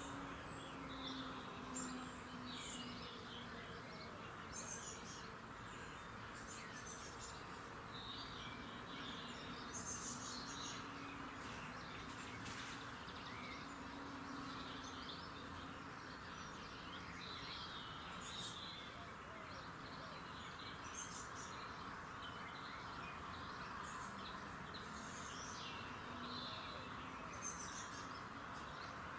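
Several songbirds singing in an early-morning chorus, short high chirps and phrases coming one after another throughout, over a steady background hiss.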